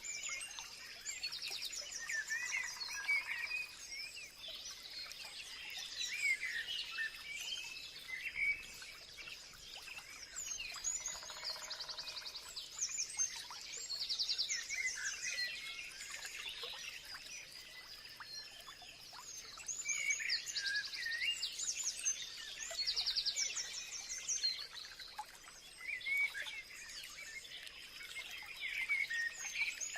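Several birds singing and chirping at once, with short whistled calls overlapping. A fast, high trill of rapidly repeated notes recurs every few seconds, over a faint steady high-pitched tone.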